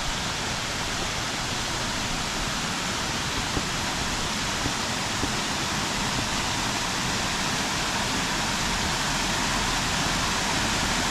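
Waterfall rushing, a steady roar of falling water that grows a little louder over the stretch.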